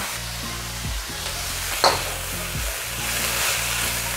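Background music over cauliflower rice and vegetables sizzling in an oiled wok. There is one sharp clack a little before halfway, and the sizzle grows louder near the end as the mixture is stirred with a wooden spatula.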